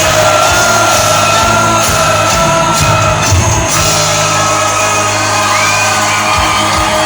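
Live cuarteto band music played loud in a hall, with singing and shouts from the crowd.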